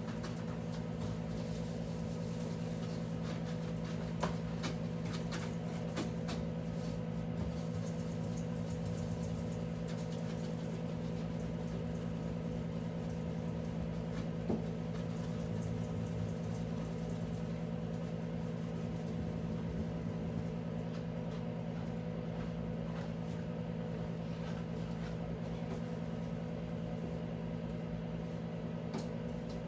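A steady motor hum at an even pitch, with a few light clicks and knocks on top, one at about 4 seconds and one at about 14 seconds.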